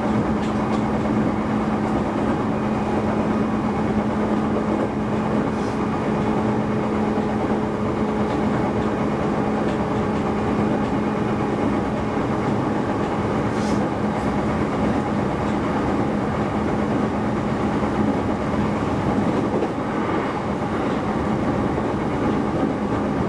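Shinano Railway SR1 series electric train running along the line, heard from inside the carriage: a steady rumble of wheels on rail with a steady low hum and a faint clickety-clack.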